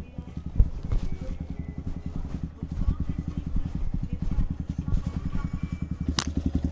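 Yamaha XSR155's single-cylinder four-stroke engine idling steadily with a fast, even pulse. A short knock sounds just after the start and a sharp click near the end.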